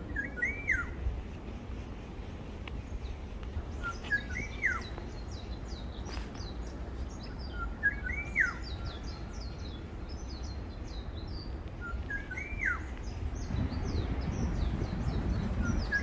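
Wild birdsong: one bird repeats a short whistled call four times, about every four seconds, a quick note followed by a rising-then-falling whistle, while other birds twitter higher and faster throughout. Underneath runs a low rumble of wind.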